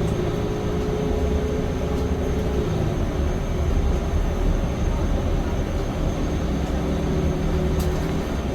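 Steady low rumble of a vehicle heard from inside, with a droning hum of several pitches and a thin, high, steady whine.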